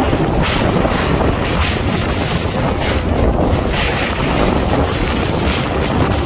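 Strong gusting wind blasting the microphone: a loud, continuous low rumble that swells and eases with each gust.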